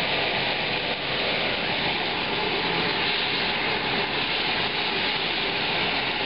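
Shrimp, chili sauce and scallions sizzling steadily in hot peanut oil in a stainless steel pan as a spatula stirs them.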